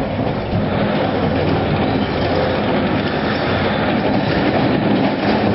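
A vehicle in motion: a steady, loud rumble and rattle.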